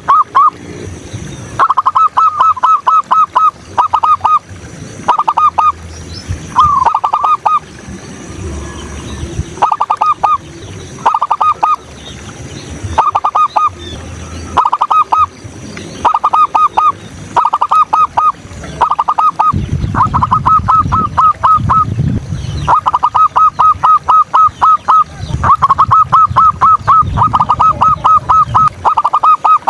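Zebra dove cooing: loud, short runs of rapid staccato notes, repeated about once a second with brief pauses.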